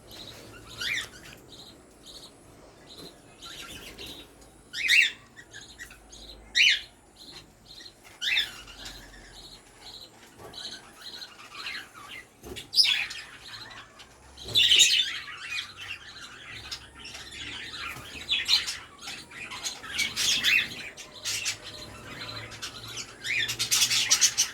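Budgerigars chirping and squawking in short scattered calls, which come thicker and louder near the end.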